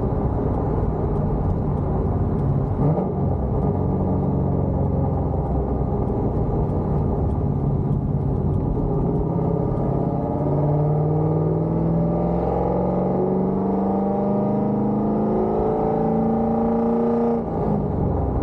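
Cammed C5 Corvette Z06's LS6 V8 with headers and Borla ATAK mufflers, running low and uneven at first, then climbing steadily in pitch for about seven seconds under acceleration. Near the end the pitch drops suddenly.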